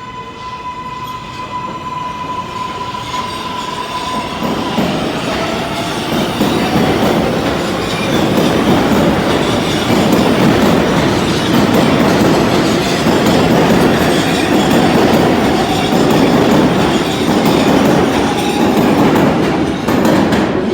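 New York City subway train pulling out of a station and gathering speed, heard from inside the car. A steady electric tone until about five seconds in, then a faint rising motor whine. Rumble and wheel noise on the rails build louder and hold from about halfway.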